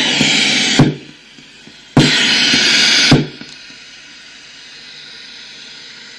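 Electronic white-noise generator gated into loud bursts of hiss about a second long, each starting and stopping with a sharp click: one already sounding as it begins, a second about two seconds in. A steady quieter hiss follows.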